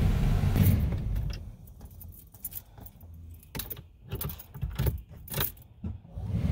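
Car keys jangling in a run of clicks and jingles as the ignition key of a 2009 Dodge Journey is worked, with no engine cranking heard; the car won't start. A low rumble dies away about a second in.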